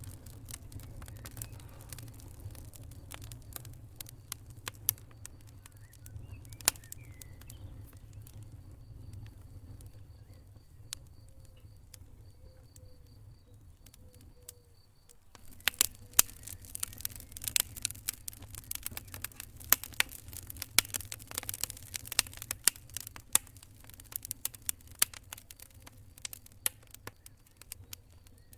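Wood fire crackling with sharp pops over a low steady rumble of the flames; the pops come sparsely at first and grow much denser and louder about halfway through.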